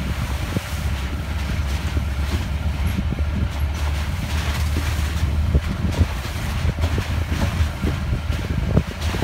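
Mahindra Roxor side-by-side driving along a gravel trail: a steady low engine drone with frequent short knocks and rattles from the rough ground.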